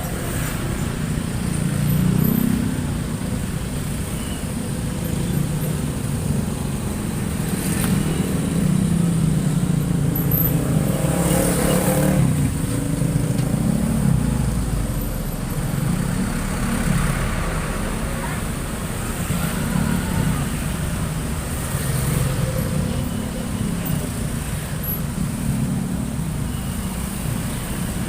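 Busy mixed road traffic (cars, trucks and motorcycles) passing continuously. The low rumble of engines and tyres swells and fades as vehicles go by, loudest around ten to twelve seconds in.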